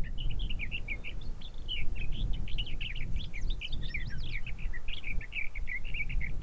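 Songbirds chirping in a quick, continuous run of short notes, over a steady low rumble.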